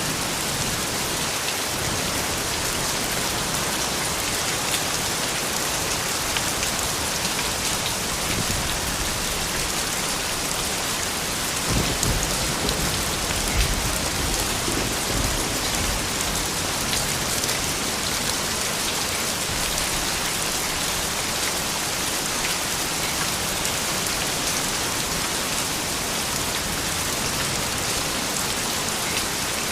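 Steady rain falling, an even hiss of drops on surfaces, with a brief low rumble about twelve seconds in.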